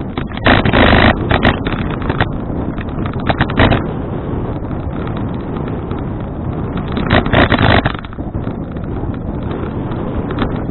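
Wind buffeting an action camera's microphone while riding a bicycle: a steady rush with three louder gusts, about half a second in, about three seconds in and about seven seconds in.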